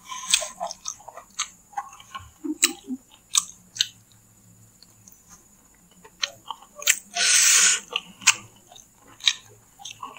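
A man chewing a mouthful of his chicken satay meal close to the microphone: wet mouth clicks and smacks, quieter for a couple of seconds in the middle, with a short hissing noise about seven seconds in.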